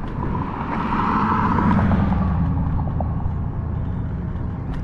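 Wind and road rumble on an action camera's microphone during a ride on an Apollo Go electric scooter, swelling louder about a second or two in, then easing off.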